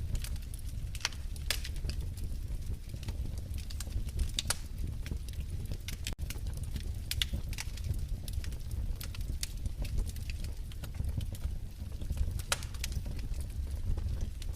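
Wood fire crackling in a fireplace: a steady low rumble of burning with irregular sharp pops and snaps, several a second at times. There is a split-second gap about six seconds in.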